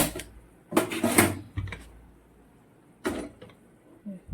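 Kitchen pots and a pressure cooker clanking and knocking as they are handled, about five separate knocks.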